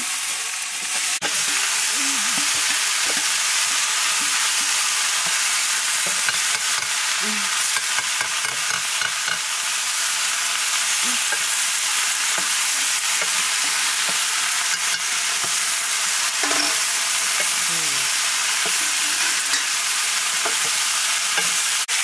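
Sliced potatoes frying in a blackened iron wok: a steady sizzle, with a wooden spatula stirring and scraping them around the pan.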